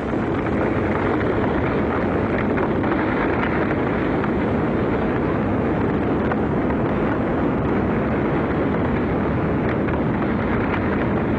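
Continuous, steady roar of an erupting lava fire fountain at close range, mixed with strong wind buffeting the microphone, with a few faint crackles.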